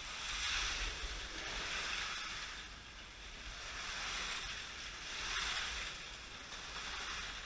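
Slot cars running laps on the track, a whirring hiss that swells and fades several times as they pass.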